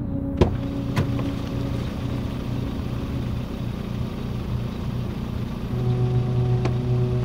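Car engine idling steadily, getting louder about six seconds in. A few sharp clicks come about half a second and a second in, and another near the end.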